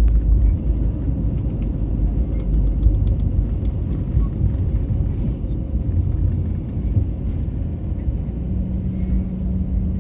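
Steady low rumble of an airliner landing, with a faint steady hum joining about a second and a half before the end.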